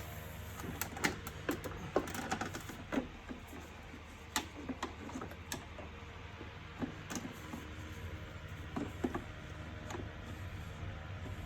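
Irregular clicks and knocks of the plastic housing and internal parts of a Bosch wet & dry vacuum cleaner being handled and fitted together during assembly, over a steady low hum.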